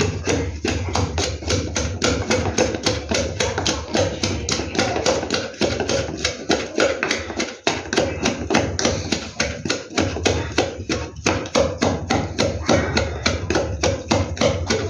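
Rapid, steady knocking of a kitchen utensil on a hard surface, about five strikes a second, while chutney is being made.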